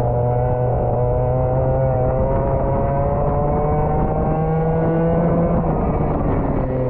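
Rental go-kart engine running under way, its pitch climbing slowly for a few seconds and then dropping back near the end.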